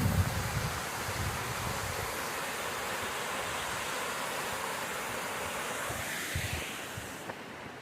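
Small stream splashing over rocks: a steady rush of running water that thins out a little near the end.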